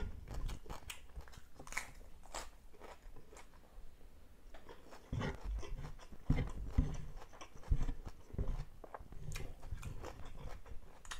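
Close-miked chewing of rice and fried fish, with irregular wet mouth clicks and crackles, and fingers pressing rice on a wooden board. A few dull thumps come in the middle.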